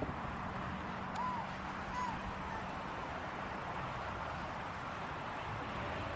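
Steady distant jet aircraft engine noise, with two short chirps about one and two seconds in.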